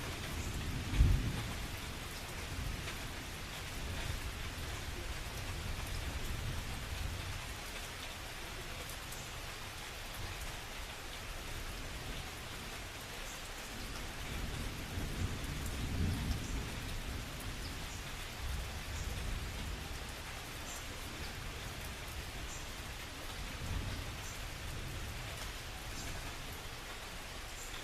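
Steady rain falling, with thunder rumbling over it several times. A sharp, loud thunder crack comes about a second in, and softer rolling rumbles swell and fade later.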